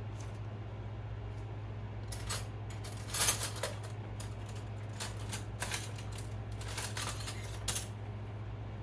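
Light metallic clinks and taps of kitchenware, a string of short knocks spread over about six seconds, over a steady low hum.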